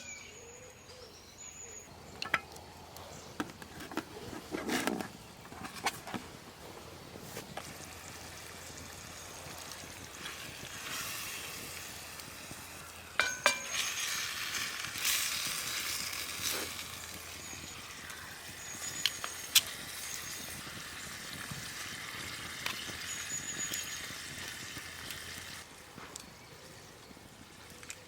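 Cooking over a campfire: scattered knocks and a few sharp metal clinks, then a steady sizzling hiss from about ten seconds in that stops near the end.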